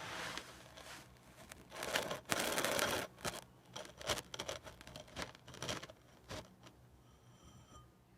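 Kinetic sand being cut: a loud scraping crunch about two seconds in, then a run of small crackles that dies away after six seconds.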